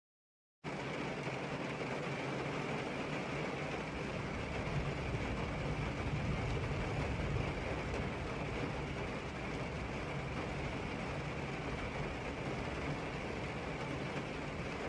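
Heavy rain falling steadily, a dense even hiss that cuts in suddenly under a second in.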